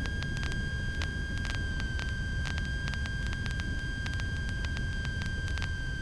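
Cessna 150's stall warning horn sounding as one steady high tone over the low drone of the engine at reduced power, with faint crackles on the intercom. The horn sounds as the wing nears the stall in the landing flare.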